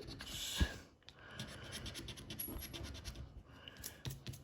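The scratch-off coating of a scratch card being scratched away in many quick, short strokes.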